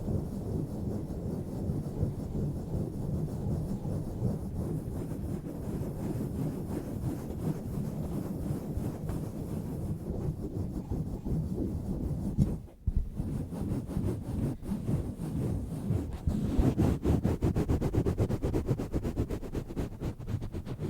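A microphone cover swirled and rubbed against the microphone, giving a deep, rough rubbing close on the mic. It breaks off briefly about two-thirds of the way in, and near the end turns to quicker, brighter strokes.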